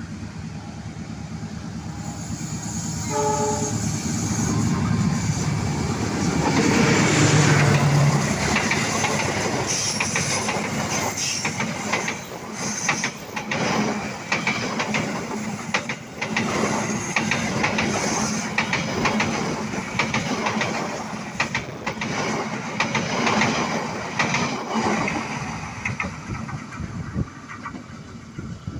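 Taksaka passenger train passing at speed behind a diesel locomotive. A short horn note sounds about three seconds in. The locomotive goes by loudest at about seven seconds, followed by a long run of rhythmic wheel clacks over the rail joints as the carriages pass, fading away near the end.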